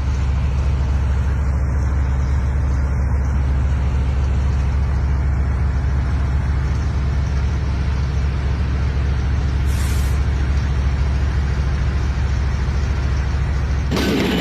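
A heavy vehicle running, with a steady deep rumble under a broad noisy hiss, and a brief high hiss about ten seconds in.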